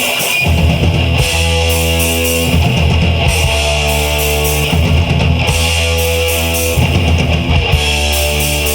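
Rock band playing a heavy riff on distorted electric guitars and bass over a drum kit with steady cymbals. The sustained low chords come in about half a second in and change every second or so.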